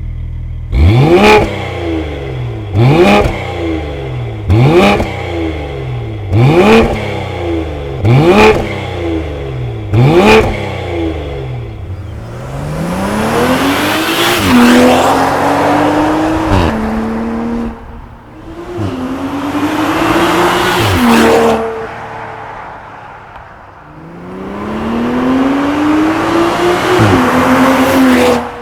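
BMW X5 40i's B58 turbocharged straight-six through a Stone catalytic downpipe and valved cat-back exhaust with the valves open. It gives six quick throttle blips about two seconds apart. Then come three hard acceleration pulls, the pitch rising and dropping back at each upshift.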